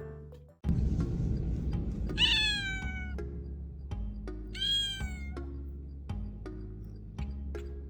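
A kitten meowing twice, two long cries that fall in pitch, over background music. The kittens are crying in protest at being taken to the vet.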